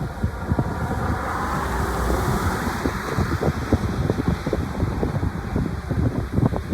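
Wind buffeting the microphone over the distant rushing sound of an aircraft's engines, which swells about two seconds in.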